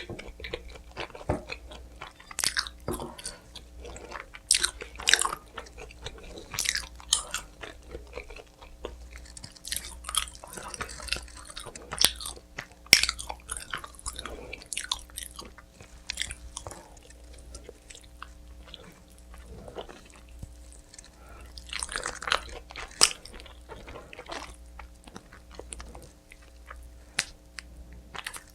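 Close-up chewing and biting of pizza, with irregular crunchy bites and chewing throughout, over a faint steady hum.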